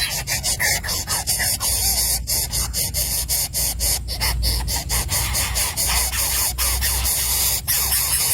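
Harsh, raspy begging calls of crow nestlings over a steady hiss.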